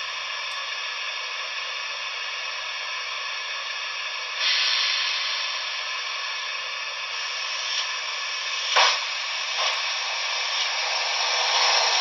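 Steam hiss from a Trix HO-scale Berkshire model locomotive's DCC sound decoder, played through its small on-board speaker. The steady hiss grows louder about four seconds in, with two short knocks around nine seconds in.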